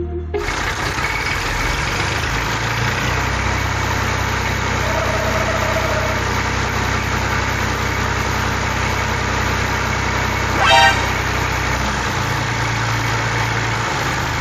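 Engine running steadily at idle, with a short horn honk about eleven seconds in.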